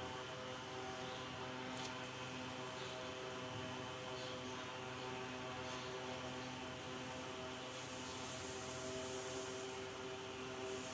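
A steady droning hum made of several fixed tones, with a hiss that grows louder about eight seconds in.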